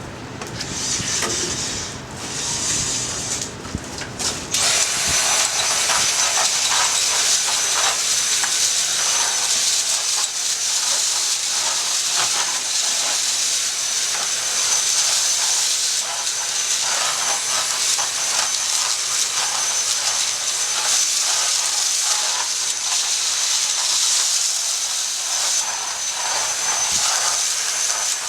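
A loud, steady hiss with a thin high whine over it, preceded by a few short puffs of hiss in the first few seconds, with faint crackling underneath.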